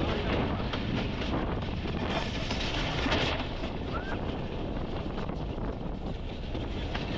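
Passenger train running along the track, a steady rumble with many small rattles and clicks, with wind buffeting the microphone.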